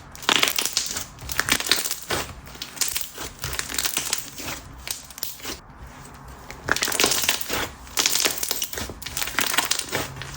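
Thick slime being squeezed and kneaded by hand, giving off clusters of crackly popping clicks.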